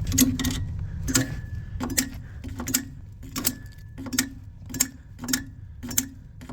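Sharp, regular clicks, about one and a half a second, each with a dull knock, from a rooftop gas heating unit being cycled while its draft inducer motor is failing.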